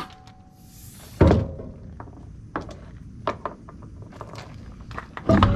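A single heavy thunk about a second in, then a few lighter knocks and clicks.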